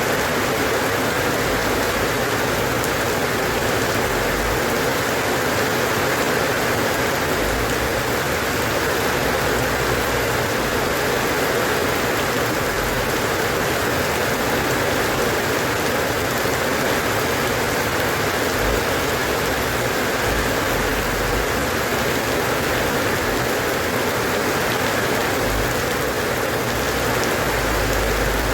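Steady rain falling, a continuous even hiss of drops on surfaces.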